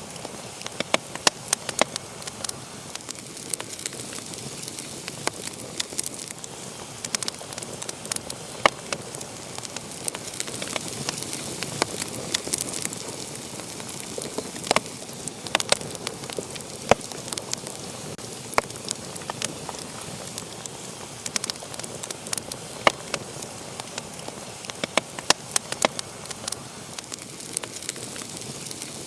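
Wood fire burning in a fireplace, crackling: a steady hiss with sharp pops and snaps at irregular intervals, several a second.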